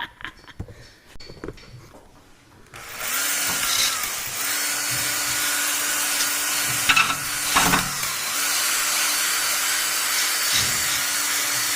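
An electric power tool starts up about three seconds in and runs steadily, a loud hiss over a motor hum whose pitch dips briefly a few times.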